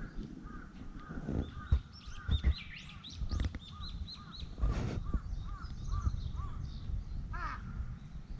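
A bird calling over and over in a quick run of short clear notes, a couple a second, over a low rumble and a few brief knocks.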